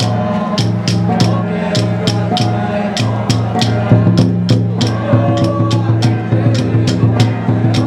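Penghu xiaofa ritual music: quick, evenly paced percussion strokes, about four a second, over a low sustained drone with a wavering melody above.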